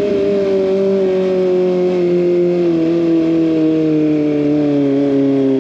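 Kawasaki ZX25R's inline-four engine through an SC Project exhaust, its revs falling slowly and steadily as the bike rolls off the throttle.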